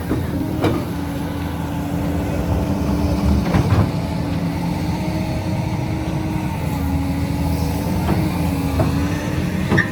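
Heavy excavator's diesel engine running steadily under load, its tone dipping slightly a couple of times. Sharp metallic knocks and clanks come now and then as the machine digs limestone.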